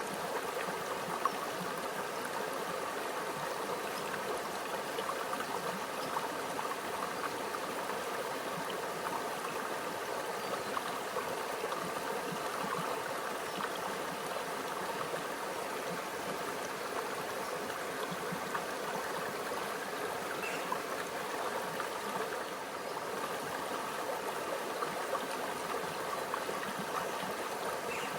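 Small stream running steadily over stones, a continuous trickling and gurgling of shallow water.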